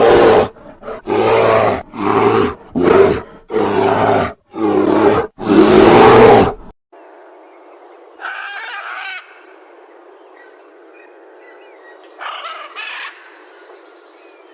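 An animal calling loudly about seven times in a row, each call under a second long, then an abrupt switch to a quieter scene with two short, higher calls, like chirps.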